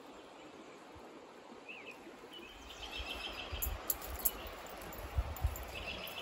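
Faint outdoor ambience with a steady hiss. A bird chirps a quick series of short high notes, twice. Low bumps and a few clicks start about halfway in.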